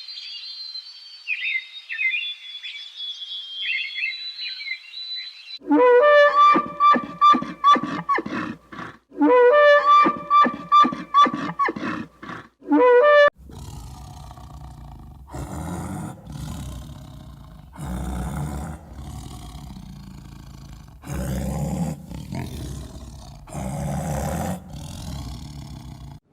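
A run of animal calls. First a high chirping twitter, then about six seconds of loud, rhythmic pitched calls repeated several times a second, then deep, rough roar-like calls repeating every second or two.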